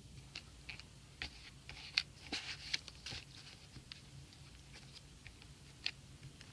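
Glue stick rubbing on paper and paper cut-outs being handled: scattered soft rustles and light taps, busiest a second or two in.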